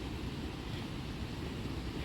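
Steady rushing of the flood-swollen Connecticut River pouring over a dam, a dense low rumble under an even hiss.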